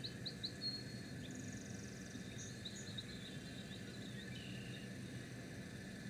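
Wild birds calling: a run of quick high chirps in the first second, then scattered chirps and a short buzzy trill, over a steady low background rumble.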